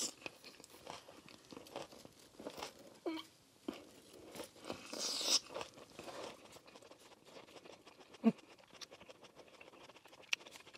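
A person chewing a mouthful of cooked onion with the mouth closed: soft crunching and small wet mouth clicks, the onion still a little crunchy inside. There is a breathy exhale about five seconds in and two brief hums, one near the middle and one near the end.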